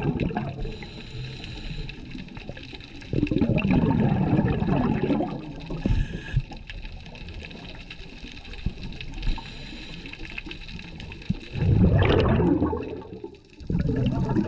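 Scuba regulator exhaust bubbles heard underwater: the diver's exhaled breath bubbling out in loud bursts of about two seconds, one about three seconds in and another near twelve seconds, with a quieter steady hiss between them.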